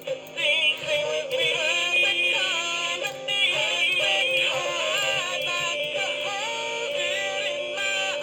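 A singing bird warbling without a break: whistled notes that slide up and down and fast trills, over a steady low tone.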